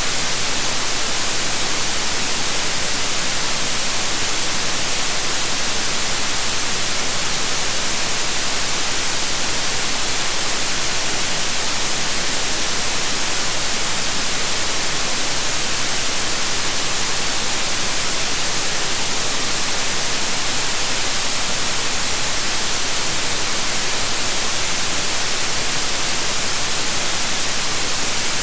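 Steady electronic white noise: an even, unchanging hiss, brightest in the high frequencies.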